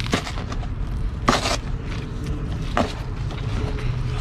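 A man chewing a bite of sandwich close to the microphone, with a few short mouth clicks and a brief hiss about a second in, over a steady low outdoor rumble.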